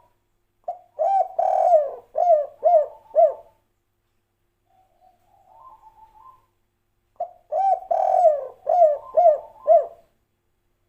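Spotted dove (tekukur/derkuku) cooing its 'kuk 3' song: two loud phrases of repeated low coo notes, each about three seconds long, with a fainter, higher call in the pause between them.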